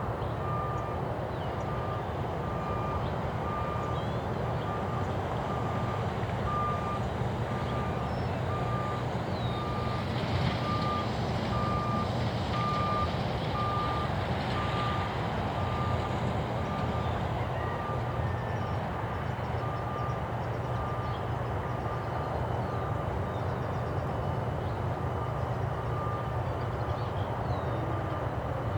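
Vehicle backup alarm beeping, one steady tone repeated about once a second, over a steady low rumble, with short high chirps above it.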